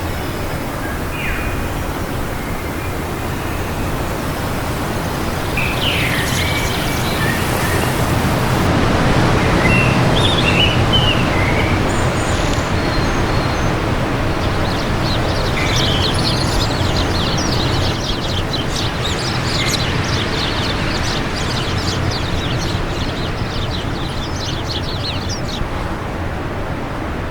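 Steady wind rushing, swelling a little about a third of the way in, with small birds chirping over it; a rapid run of high twittering fills much of the second half.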